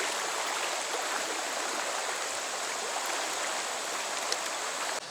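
Stream water rushing steadily. It cuts off abruptly just before the end, giving way to a quieter, different sound.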